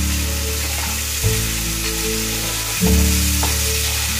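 A spice paste of ginger, cumin, chilli and turmeric sizzling as it fries down in oil in a non-stick pan, stirred with a wooden spatula. Background music with sustained notes that change about every second and a half plays over it.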